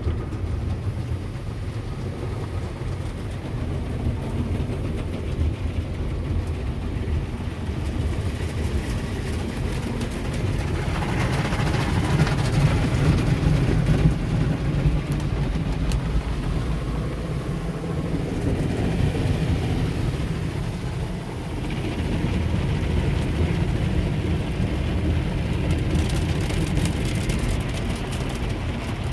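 Ryko SoftGloss Maxx soft-touch automatic car wash running over a car: a steady low machinery rumble with washing noise. It grows louder and hissier about eleven seconds in and changes again a little past twenty seconds.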